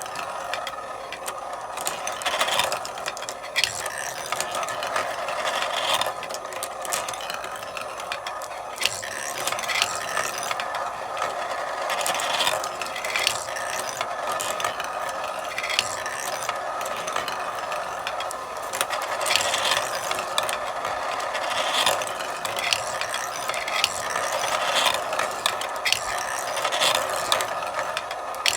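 Marbles rolling along a marble run: a continuous rolling rattle broken by frequent sharp clicks at irregular intervals as marbles strike the track and one another.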